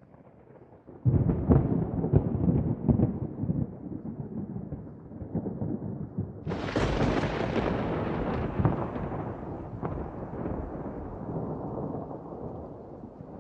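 Thunder: a loud rolling rumble with crackles breaks about a second in, and a second, brighter peal comes a little past the middle and slowly dies away.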